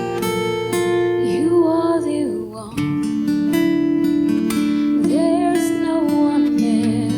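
Acoustic guitar playing the song's intro, sustained chords picked and strummed. A wordless voice glides over it in two short phrases.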